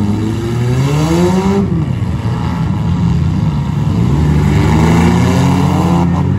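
Demolition derby compact cars' engines revving hard. The pitch climbs and drops off about a second and a half in, then climbs again and holds high before falling near the end.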